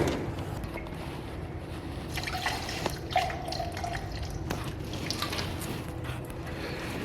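Workshop background: a steady low hum with scattered small clicks and taps, and a brief faint tone about halfway through.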